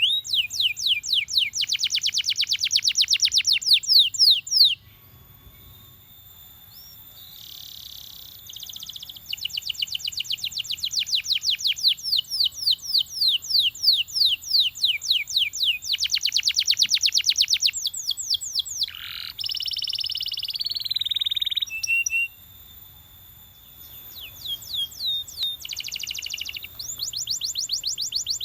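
Belgian canary singing: long, fast trills of rapidly repeated down-sweeping notes, in phrases broken by two short pauses, with a brief harsher buzzy phrase about two-thirds of the way in.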